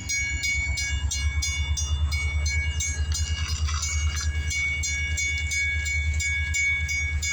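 CSX diesel-electric locomotive engine running under load with a steady, pulsing low rumble, and several steady high-pitched tones above it.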